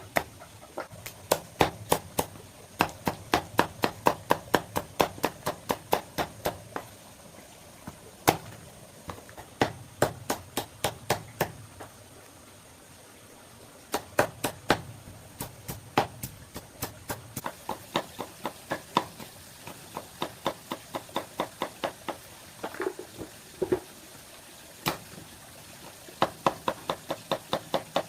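Runs of quick, sharp knocking strikes, about four a second, broken by short pauses.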